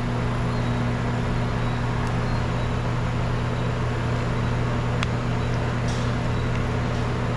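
A steady, unchanging low mechanical hum with a faint click about five seconds in.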